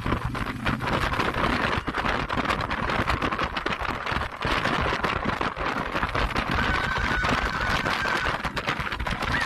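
Steady rushing noise with constant crackling, from a motorcycle ride under way.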